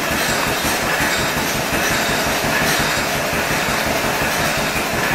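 Ottawa log saw mounted on a tractor and driven through its PTO shaft, running with no blade fitted: a steady, fast mechanical clatter from the saw's drive over the tractor engine.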